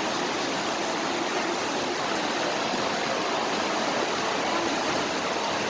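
Floodwater rushing steadily over a flooded road, a continuous even rush with no breaks.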